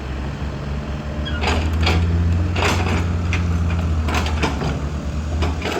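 Heavy diesel earthmoving machine's engine running steadily, with several sharp knocks and clanks over it.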